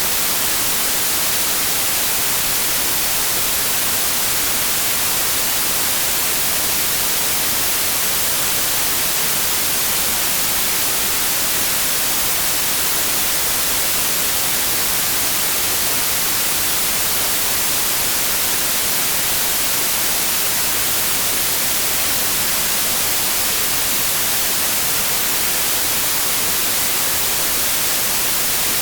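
Steady synthetic white noise: an even, unbroken hiss at a constant level, strongest in the high treble.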